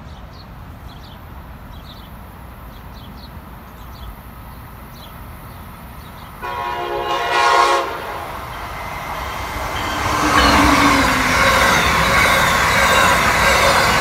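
An Amtrak passenger train approaching at speed sounds its horn once, a chord held about a second and a half, about six seconds in. Its rush of wheels on rail then builds and stays loud and steady as the train passes close by.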